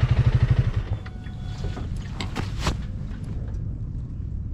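Honda Rebel 300's single-cylinder engine running, with a loud, fast low pulsing for about the first second that settles into a steadier rumble, and a couple of sharp clicks about halfway through.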